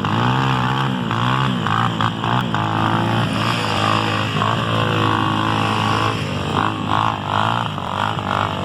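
Trail motorcycle engine revving hard under load, its pitch rising and falling repeatedly as the throttle is worked on a climb.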